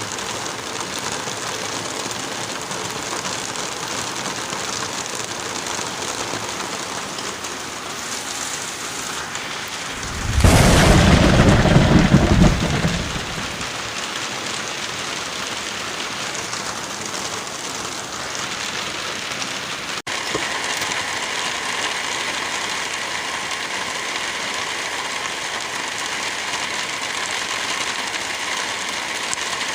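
Steady light rain and wind in a forest, with a loud, low rumble lasting two to three seconds about ten seconds in. About twenty seconds in the sound shifts abruptly, as at an edit.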